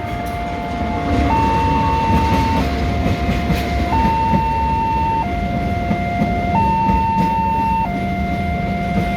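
Railway level-crossing warning siren sounding its two-tone alarm, a low and a high note taking turns about every 1.3 seconds, over a steady low rumble.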